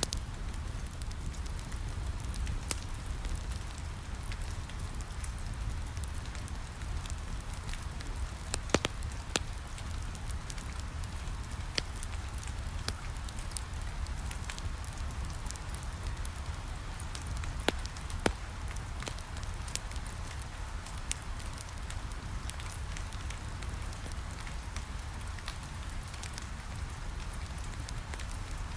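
Steady rain on a window mixed with a crackling wood fire in a fireplace, over a constant low rumble, with scattered sharp pops, a few louder ones near 9 and 18 seconds in.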